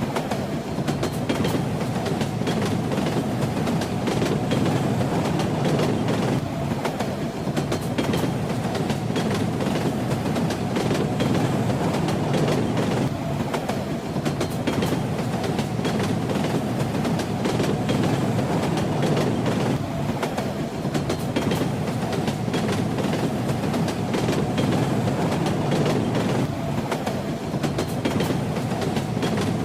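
A moving train, rumbling steadily, with the rattle of its wheels clicking over the rail joints.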